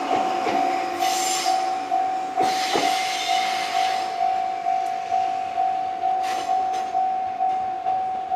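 Japanese level crossing's electronic warning bell ringing steadily, a little under two strikes a second. Short bursts of passing-train noise come about one second in and again around three seconds in.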